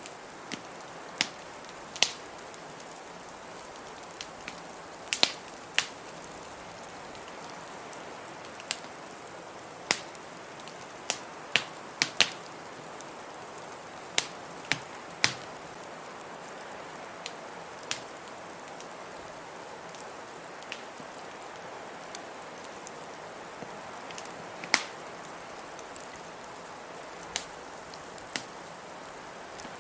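Wood fire crackling in a fireplace, with sharp, irregular pops every second or two over a steady hiss of blizzard wind.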